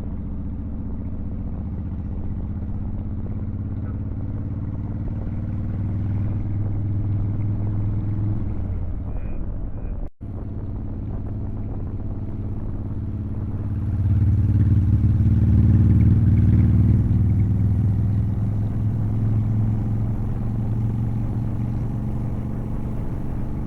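Motorcycle engine running during a ride. It grows louder about halfway through, then slowly eases off, with a brief break about ten seconds in.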